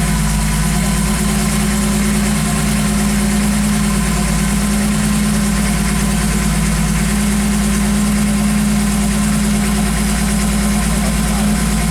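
A car engine idling steadily at close range, its even hum unchanging.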